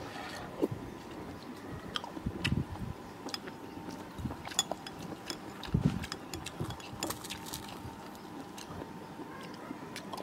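Close-up eating sounds: chewing and biting, with scattered light clicks of a metal spoon against a bowl.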